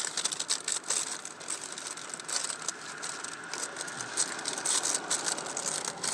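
Rustling and crinkling with many quick small clicks and crackles, from things being handled close by, such as snack packaging.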